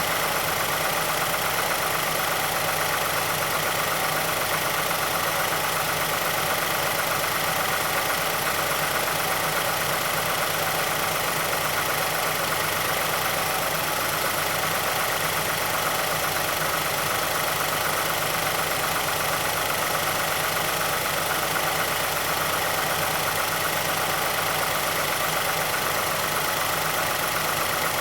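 2006 Mazdaspeed6's 2.3-litre turbocharged DISI four-cylinder idling steadily after a cold start. It is being listened to for the VVT actuator ticking and timing-chain rattle covered by Mazda's SSP-87, a noise the owner later says grows a little more pronounced as the engine warms.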